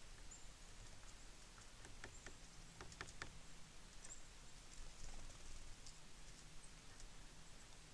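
Small birds at a seed feeder: a quick run of faint clicks and taps from beaks and feet on the feeder, bunched about two to three seconds in, with a few faint high chirps.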